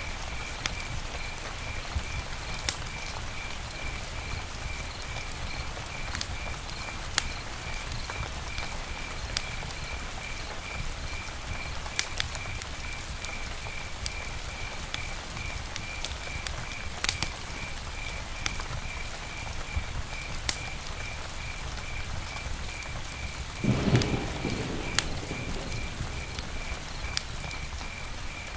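Campfire crackling steadily with sharp pops every few seconds, under a high chirp repeating about two to three times a second. About 24 seconds in, a brief low rumbling swell rises and fades over a couple of seconds.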